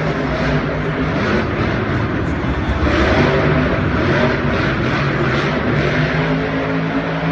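Racing truck engine running at a steady speed under a broad rush of noise, swelling a little about three seconds in.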